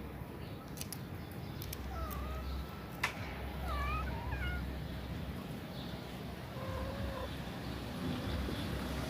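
Kittens mewing in a few short, high, wavering calls, clustered about four seconds in, over a low steady background rumble. A single sharp click sounds about three seconds in.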